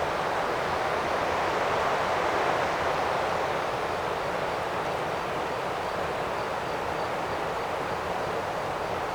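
Steady rushing of the Kings River's flowing water, an even noise with no breaks. From about three and a half seconds in, a faint high chirp repeats roughly twice a second.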